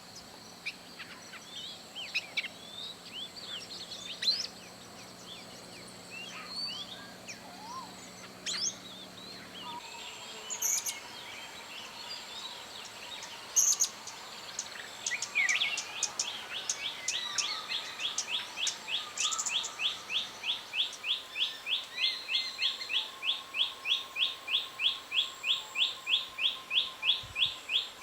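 Wild birds calling: scattered chirps and short whistled notes, then about halfway in one bird starts a rapid, even series of short high notes, about two to three a second, that keeps going.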